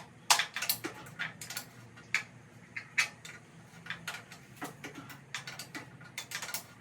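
Sharp metal taps, more than a dozen at an uneven pace, as a hammer knocks at stuck bolts in a Ford 2N tractor's housing to drive them out. The bolts are seized in place, which the owner thinks is only old paint holding them.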